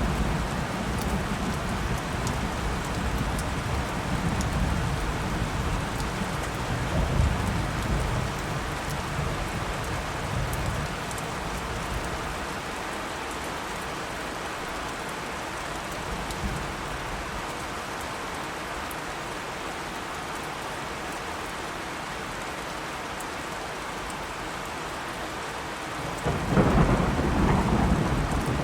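Steady heavy rain with thunder rumbling low for the first dozen seconds, then dying away. Near the end a loud clap of thunder breaks over the rain.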